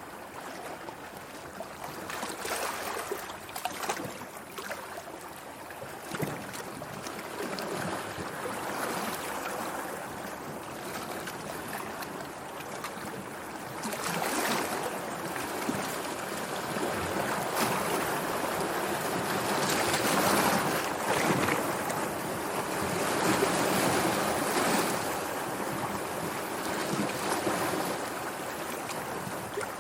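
Sea water washing and lapping in a continuous wash that swells and eases, growing louder about halfway through.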